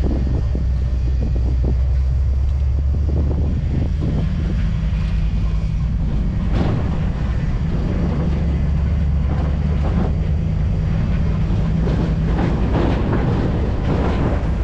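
Old Ford F250 pickup truck driving on a back road, heard from the open truck bed: a steady low rumble of engine and road noise with irregular knocks and rustles over it.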